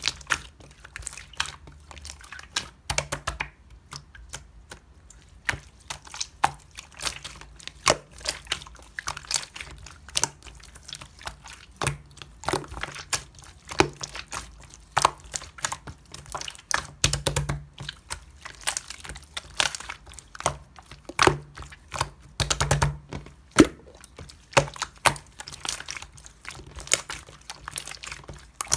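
Red clear slime being squished and pressed by hand, giving a steady stream of irregular sticky clicks and pops.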